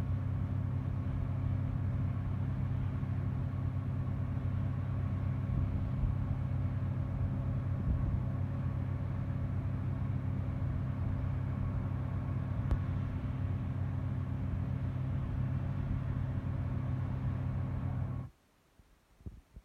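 A large engine running steadily at a low, even pitch, cutting off suddenly near the end.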